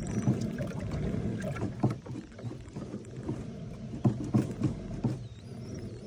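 Kayak on the water: a low rumbling slosh with scattered knocks and clunks against the hull, the sharpest ones about two and four seconds in.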